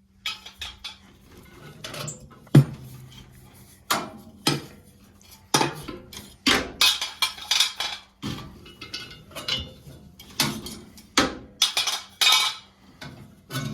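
Irregular metallic clanking and clinking as a gas boiler's sheet-metal burners and parts are handled and knocked together during disassembly for cleaning.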